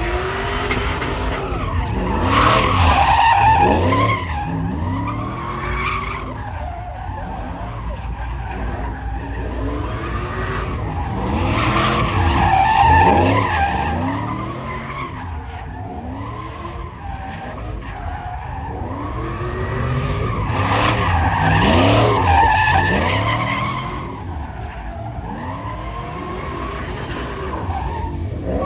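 Truck engine revving hard with tires skidding and squealing, as in burnouts or donuts. The sound swells louder three times, about nine seconds apart, and the engine pitch rises and falls repeatedly.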